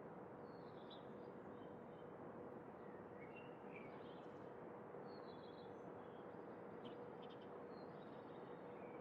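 Faint birdsong: scattered short chirps and calls from several birds, over a steady outdoor hiss with a faint steady hum.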